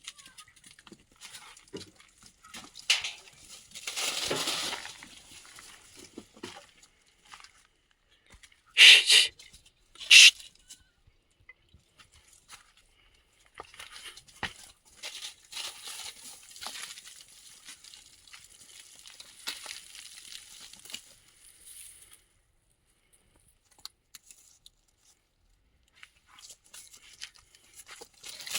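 Intermittent rustling and crinkling. It swells about four seconds in, two short, sharp, loud sounds come about nine and ten seconds in, and a longer spell of rustling follows.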